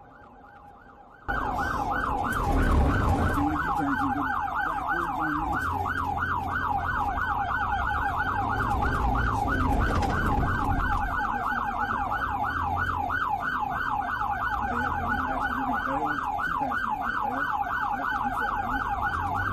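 Police car siren on its fast yelp setting, a rapid rising-and-falling wail of several sweeps a second, switched on abruptly about a second in and running on steadily, over the low rumble of the vehicle.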